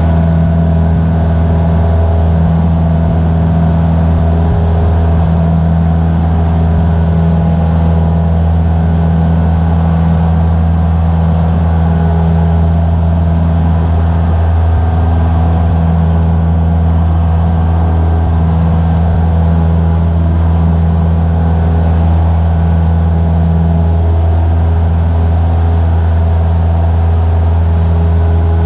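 Cessna 172's piston engine and propeller droning steadily, heard from inside the cockpit. The pitch holds throughout.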